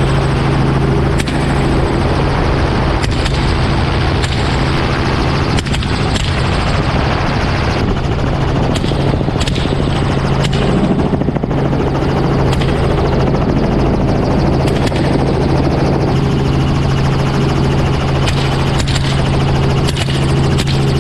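Helicopter rotor and engine running steadily in flight, heard from on board with the doors open, a loud constant drone with a low hum. Several short sharp cracks stand out at irregular moments.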